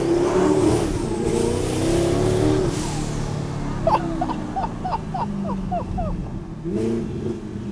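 Twin-turbo V8 of a first-generation Audi R8 revving under hard acceleration, with exhaust pops and crackles. Midway there is a quick run of short chirps, about four a second.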